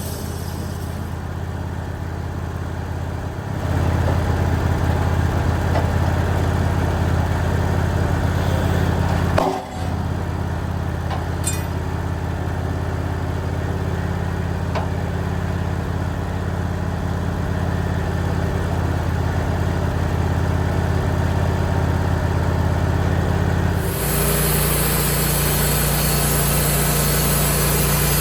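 Portable sawmill's engine running steadily. It gets louder about four seconds in, dips briefly near ten seconds and changes its note about 24 seconds in.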